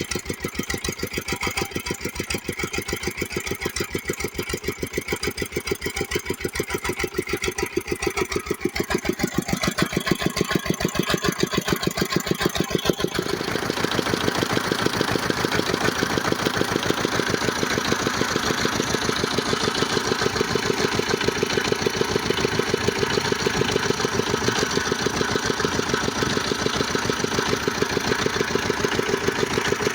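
Old 18 hp diesel engine running steadily with an even, rapid firing beat while driving a kiln exhaust fan. About thirteen seconds in the sound grows louder and fuller.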